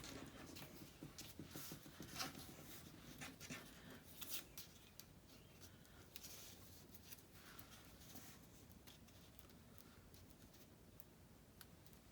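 Faint rustling, scratching and small clicks of a paper label being handled and trimmed by hand, busiest in the first few seconds and then quieter.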